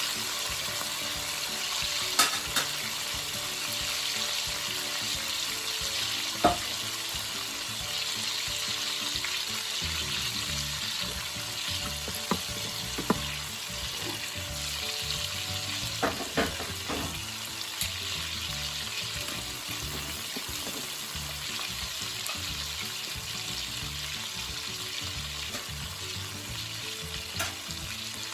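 T-bone steaks sizzling steadily as they brown in a frying pan, with a few sharp clicks scattered through.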